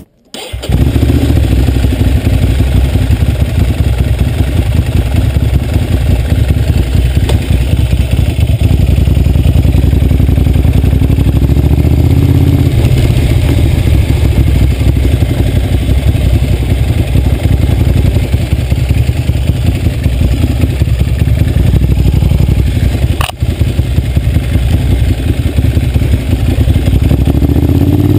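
Ducati Monster 795's air-cooled L-twin running under way through a Termignoni exhaust, a steady engine note heard from on the bike. The note steps down in pitch about halfway through, dips briefly with a click later on, and revs rise near the end.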